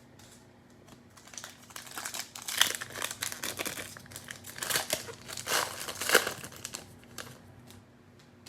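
Plastic cello-pack wrapper of a trading card pack crinkling as it is torn open, a dense run of crackles starting about a second in, loudest in the middle and dying away near the end.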